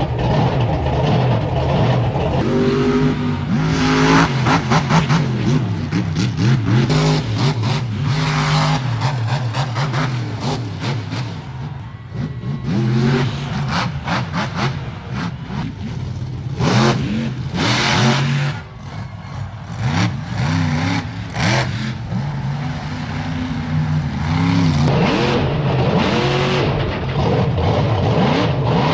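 A monster truck's engine revving hard, over and over, its pitch climbing and dropping with each blip of the throttle during a freestyle run.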